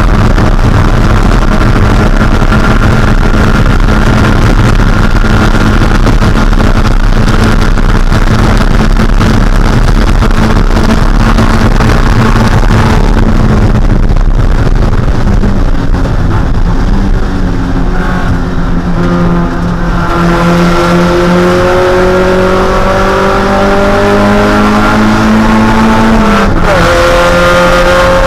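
Mazda Miata's 1.6-litre four-cylinder race engine running at high revs. It holds a steady pitch, eases off in the middle, then climbs in pitch again, with one quick drop and rise near the end like a gear change.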